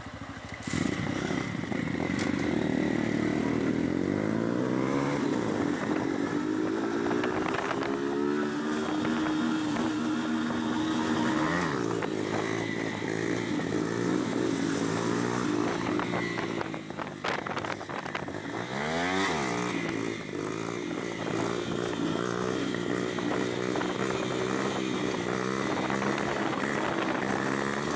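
Honda CB 300 motorcycle engine running under way, its revs climbing and holding. Twice the revs drop sharply and pick up again, about halfway through and again later on.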